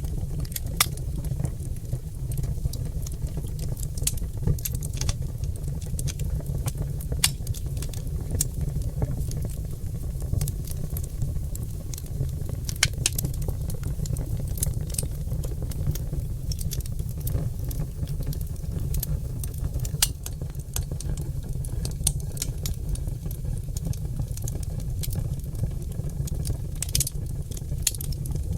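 Oak logs burning in an open fire, crackling with irregular sharp pops over a steady low rumble of flame.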